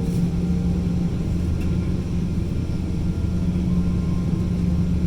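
Steady low hum inside the cabin of a Boeing 777-200ER parked at the gate, with a constant low tone running through it.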